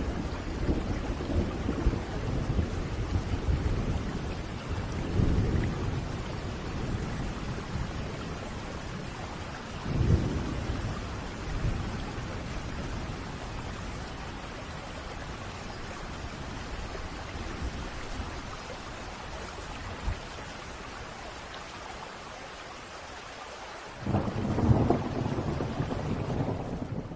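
Thunderstorm: steady rain with rolling thunder. The rumbles come in the first few seconds, again with a sharper crack about ten seconds in, and loudest near the end.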